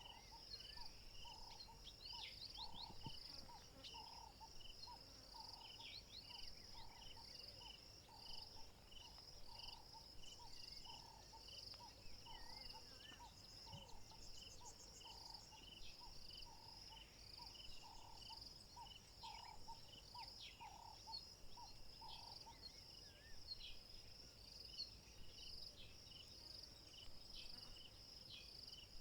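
Faint, steady chorus of insects chirping in the African bush, with scattered short bird chirps. A lower note repeats about twice a second and stops about two-thirds of the way through.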